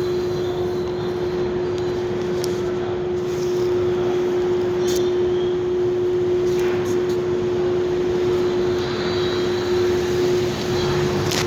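Parking lot ambience: a steady droning hum holding one pitch over a constant wash of machine and traffic noise, with a few faint clicks.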